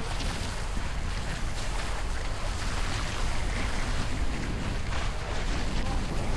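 Wind buffeting the microphone over the rush of water along the hulls of a Hobie 16 catamaran under sail, a steady noisy hiss with a low rumble.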